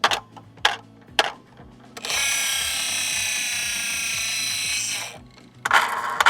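Plastic-and-metal working parts of a diecast model truck being operated: a few sharp clicks, then a steady ratcheting whirr for about three seconds, then a burst of rapid clicking near the end.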